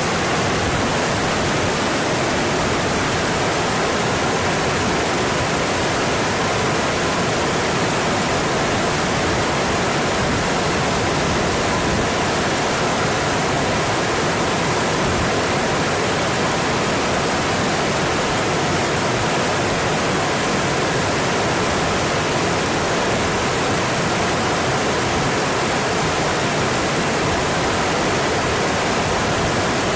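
Mountain stream rushing over rocks, a steady, even wash of water.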